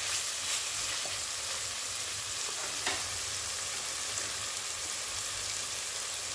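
Tomatoes and onion-spice masala sizzling steadily in oil in a steel kadai, with a spatula stirring through it at first and a couple of light clicks.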